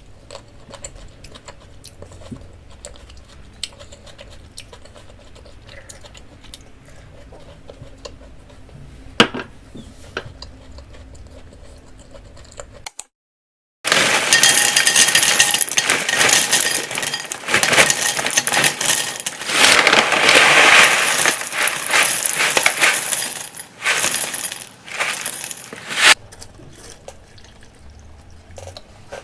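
Dry cereal being poured into a bowl: a loud, dense rattling of pieces striking the bowl that lasts about twelve seconds and comes in surges. Before it are a few faint clicks of eating.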